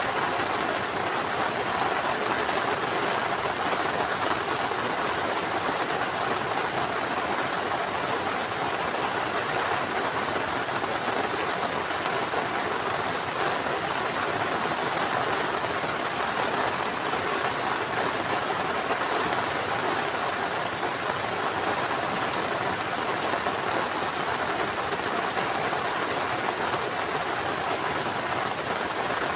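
Heavy rain falling steadily, a dense even hiss of drops hitting surfaces with occasional sharper drop ticks.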